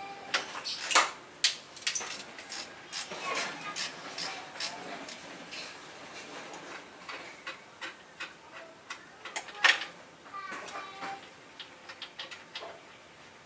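Irregular sharp clicks and knocks of hand tools at work on a car engine.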